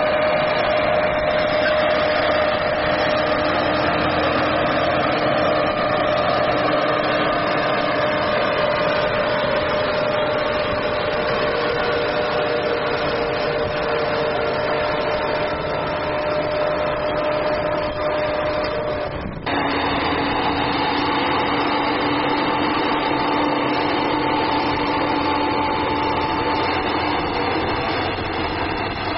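Fendt tractor engine running steadily. About two-thirds through it cuts abruptly to a different steady engine note.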